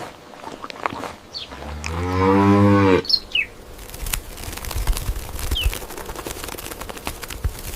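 Cattle mooing: one loud call of about a second and a half that rises, holds steady and cuts off abruptly. A few short bird chirps sound around it, and light clicking and rustling follow.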